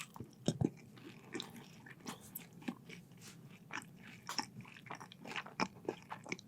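Close-miked chewing of French fries: soft, irregular wet mouth clicks and small crunches, several a second.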